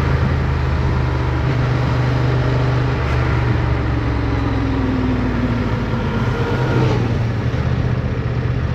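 Motorcycle engine running steadily while riding, under rushing wind noise, with a few tones falling in pitch about halfway through.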